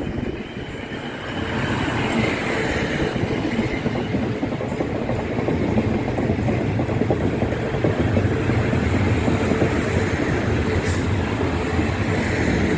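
Passenger train running along the platform, a steady rumble that swells about a second and a half in and then holds.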